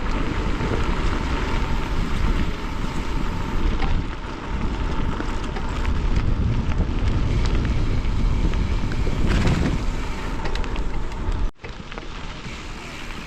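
Wind buffeting the microphone while riding a bicycle: a loud, dense rumble. About three-quarters of the way through it cuts suddenly to a quieter hiss.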